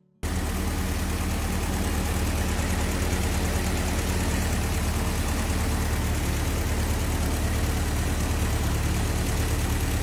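Old car engine idling steadily, with an even low hum.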